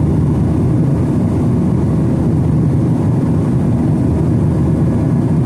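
Steady low rumble of engine and airflow noise inside the cabin of a Boeing 737-900ER in flight.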